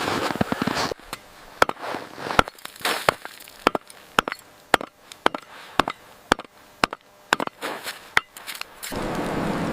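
A run of sharp knocks, about two a second, with a steady hiss setting in near the end.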